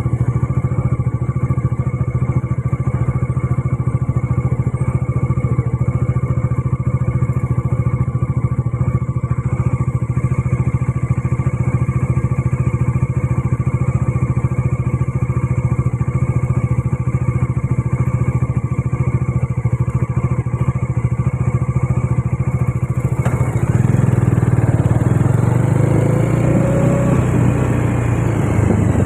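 Bajaj Dominar 400's single-cylinder engine running at a steady pitch. About three-quarters of the way through it grows louder and heavier, with the pitch shifting.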